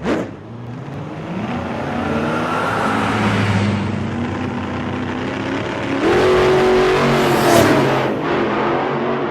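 A car engine revving and accelerating, its pitch rising and gliding, growing louder about six seconds in.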